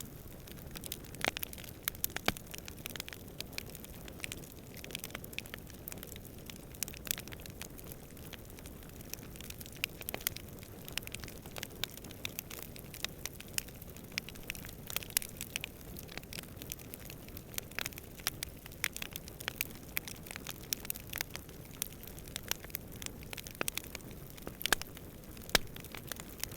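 Wood campfire crackling, with frequent irregular sharp pops and snaps over a low steady rumble of burning and faint wind.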